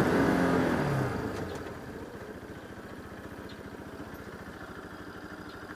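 Bajaj Pulsar RS200's single-cylinder engine winding down as the motorcycle comes to a stop, its pitch falling over the first second or so with the wind noise dropping away, then settling into a steady idle.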